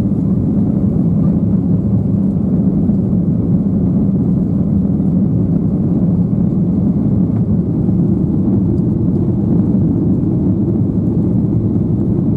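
Steady drone of Boeing 737-800 cabin noise: jet engines and airflow heard from inside the cabin, even and unchanging.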